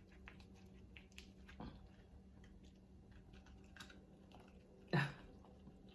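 Faint, scattered clicks and taps of king crab leg shells being handled as the meat is picked out, with a short louder sound about five seconds in.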